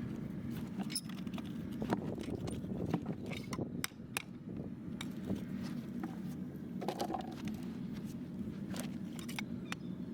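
Farrier's hand tools working on a horse's hoof: irregular sharp metallic clicks and scrapes over a steady low background noise.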